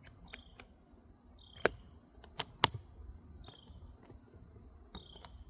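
A few sharp clicks and knocks of hard case hardware being handled, the loudest about one and a half and two and a half seconds in. Under them a steady high-pitched whine and short falling chirps repeat every second or two.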